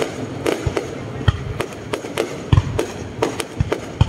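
Aerial fireworks display: shells bursting in a rapid, irregular string of deep booms and sharper cracks, several a second.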